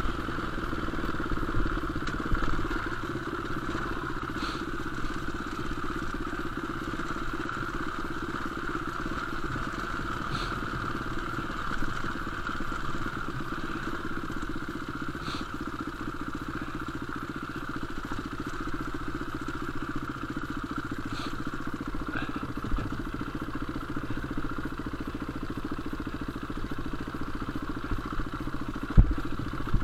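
Enduro motorcycle engine running at a steady, unchanging pitch, with a few faint ticks and a single sharp thump near the end.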